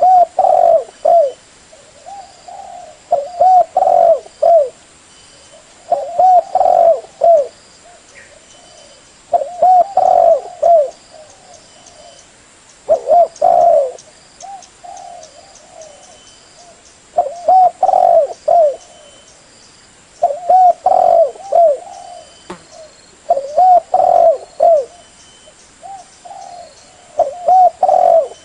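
Spotted dove (terkuku) cooing: short phrases of several low coos, nine in all, repeated every three to four seconds, with fainter coos in the gaps.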